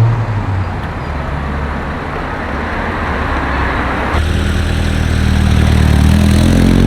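Car engine running close by. About four seconds in, the sound changes suddenly to a steadier, deeper engine note, which rises slightly in pitch near the end.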